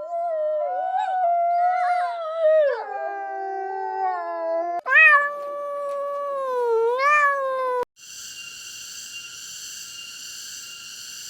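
Two long, drawn-out animal howls: the first lasts about five seconds and wavers in pitch, and the second dips, rises and cuts off suddenly. After that comes a steady, quieter high buzzing tone.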